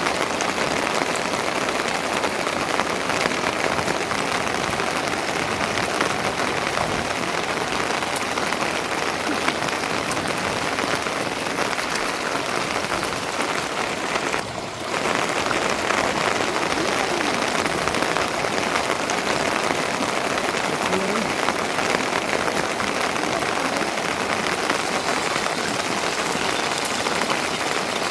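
Steady rain falling, an even hiss of drops that dips briefly about halfway through.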